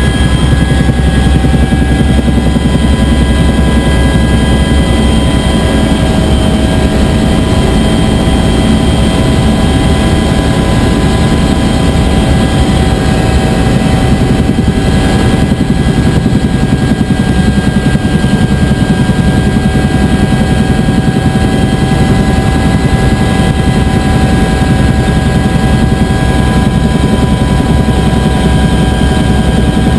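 UH-1 Huey helicopter running steadily in flight: a loud, even rotor and engine rumble with a steady turbine whine over it.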